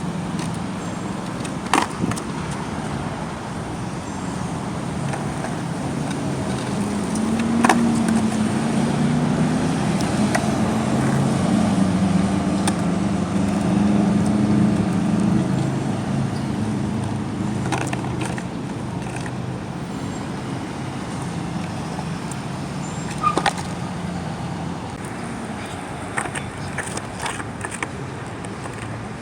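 Skateboard rolling on pavement, with several sharp clacks of the board striking the ground during freestyle tricks. A low engine hum swells and fades in the middle, typical of a car passing.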